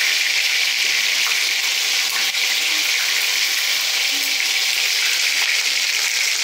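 Chicken pieces frying in a pan of hot oil: a steady, loud sizzle.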